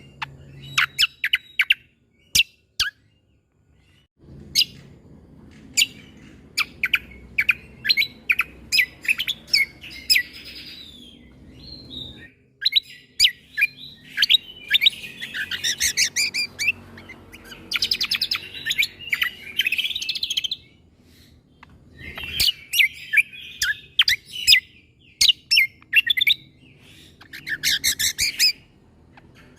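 Cucak kombo (kecial kombo) singing loud, sharp, shot-like chip notes in quick series, broken by several bursts of fast rattling trilled phrases.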